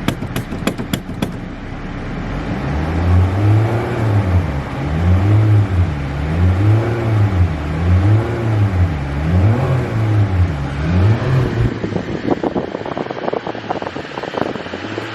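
Car engine revved over and over, its pitch rising and falling about every second and a half, then easing off near the end. A run of sharp clicks sounds in the first second.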